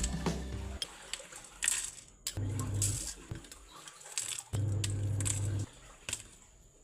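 Small clinks and light knocks of hard objects being handled, with a low hum that comes and goes.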